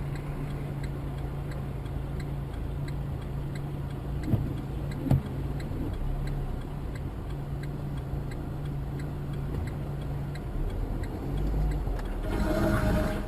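A vehicle engine's steady low drone, with a faint, even ticking about twice a second. There are two short knocks about four and five seconds in, and a louder rush of noise near the end.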